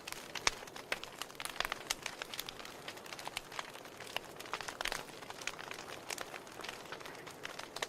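Wood fire burning in a fireplace: logs crackling with irregular sharp pops over a soft steady hiss of flame.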